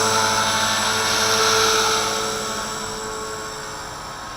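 Walkera V450D01 450-size electric RC helicopter's motor and rotors whining steadily in flight, growing gradually quieter from about halfway through.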